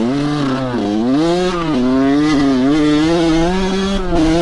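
Dirt bike engine under throttle while riding. The revs rise and drop twice in the first couple of seconds, then hold fairly steady.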